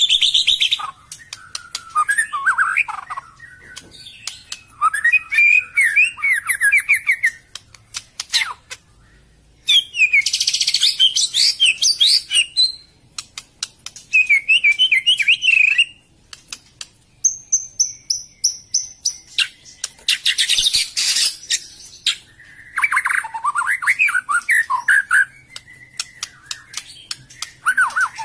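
Murai songbird singing in bouts of rapid, varied whistled phrases mixed with harsh chattering and sharp clicking notes, with short pauses between bouts.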